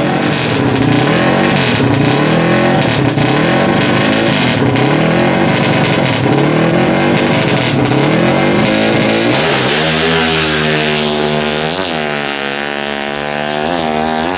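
Drag bike with a Honda CBR engine in a Kawasaki KR frame, revving up and down at the start line, then launching about nine seconds in: the engine pitch climbs hard, drops at a gear change, and climbs again, with a second shift near the end.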